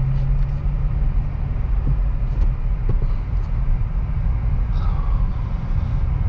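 2023 Acura Integra's 1.5-litre turbocharged four-cylinder engine and tyres giving a low, steady rumble as the car pulls away in first gear after the clutch bites.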